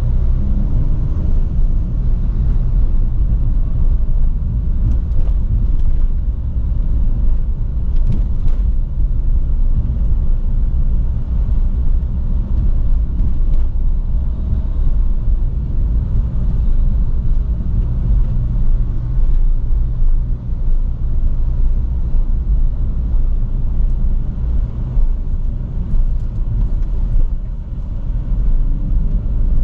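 A small sports car's loud engine and exhaust while driving, a steady low rumble mixed with road noise.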